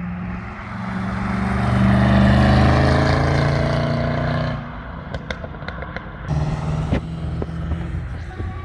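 Race car's engine accelerating hard past on the track, its note rising and growing louder over about two seconds, then cutting off sharply about four and a half seconds in. Another engine is heard running more steadily near the end.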